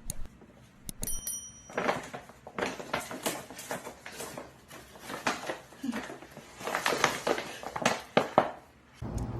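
A run of irregular knocks and clattering, with a brief high ringing tone about a second in.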